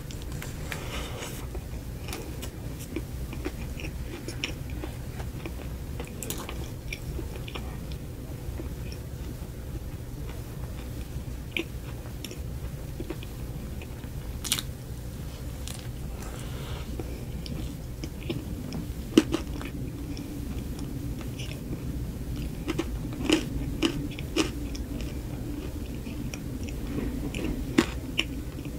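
Close-up biting and chewing of a soft frosted cupcake, wet mouth sounds with scattered small crunches and a few sharper clicks, over a steady low hum.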